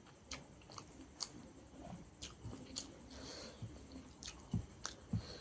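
Close-up mouth sounds of someone eating rice with fish curry: chewing with a string of sharp, wet lip smacks about twice a second.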